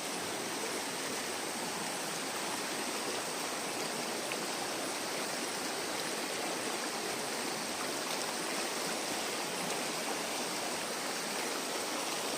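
Stream water running, a steady, even rush with no pauses.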